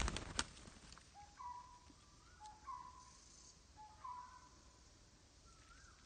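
A bird calls over and over, about every second and a half. Each call is a short low note, then a steadier higher note, then a quick rising slide. There is a brief loud rustle with a couple of sharp knocks right at the start.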